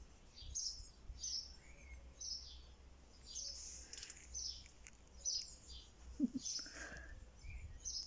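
Small birds chirping: short high chirps that dip in pitch, repeated about every half second.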